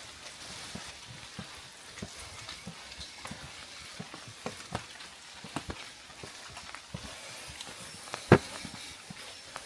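Steady rain hiss with scattered heavy drops tapping at irregular moments, and one much louder tap a little past eight seconds in.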